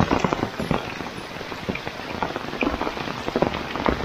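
Heavy rain falling steadily, with many close drops pattering on corrugated roof sheets and wet ground.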